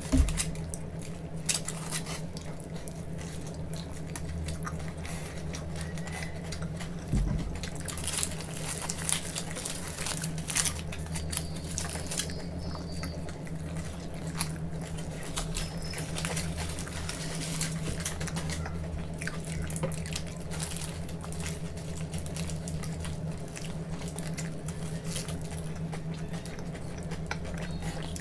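Close-miked chewing and wet mouth sounds from people eating paneer rolls, with many irregular smacks and clicks. A steady low hum runs underneath.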